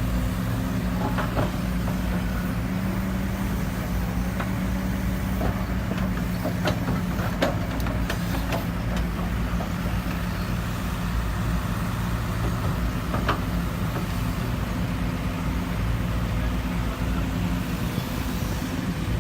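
Excavator's diesel engine running at a steady pitch, with scattered metallic clanks and knocks from the working machine, most of them in the middle of the stretch.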